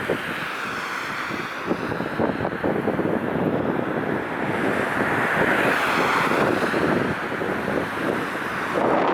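Jet airliner passing close by, its engine noise swelling to a peak about halfway through with a sweeping, phasing hiss, under heavy wind buffeting on the microphone.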